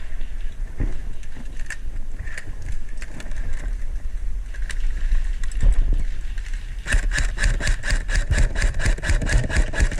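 Airsoft gun firing a rapid, even string of shots, about eight a second, starting about seven seconds in and lasting around three seconds. Before it there are scattered knocks and low rumbling movement noise on the microphone.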